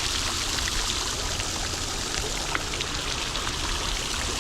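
Steady rush of running water, an even hiss that does not change, with a low rumble underneath.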